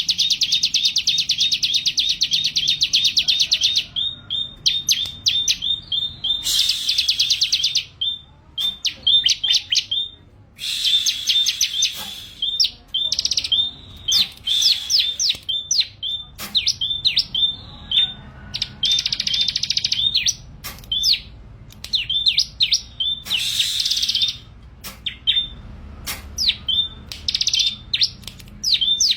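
A bar-winged prinia (ciblek) in full song. Bursts of very fast, high, buzzy trills alternate with runs of separate sharp chirps, repeating over and over.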